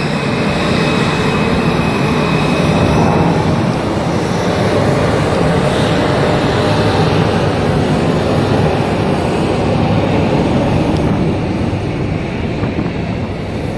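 Loud, steady engine noise of an airplane in flight, holding at about the same level throughout.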